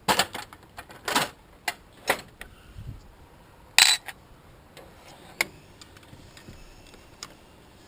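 Scattered clicks and clinks of hand tools and metal fittings being worked on an engine's fuel line, with one louder sharp clank about four seconds in.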